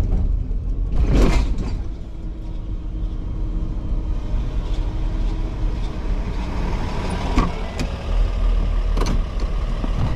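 Truck engine running steadily, with a brief loud rush of noise about a second in and a few sharp clicks or knocks near the end.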